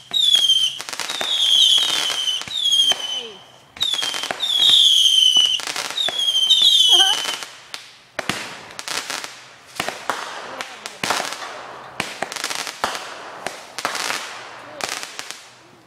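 Fireworks going off: a rapid series of whistles, each falling slightly in pitch, for about the first seven seconds, then a dense run of bangs and crackling cracks.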